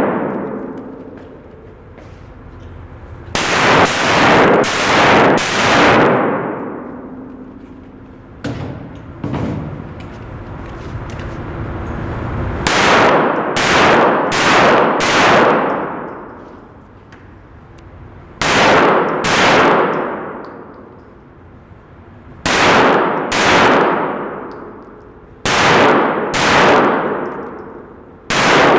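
Gunfire in rapid strings of two to five shots, a few seconds apart, each shot followed by a long echoing, ringing decay.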